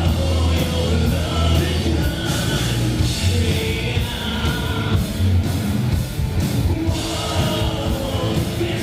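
Live rock band playing a loud song, a sung lead vocal over drums, bass and guitars.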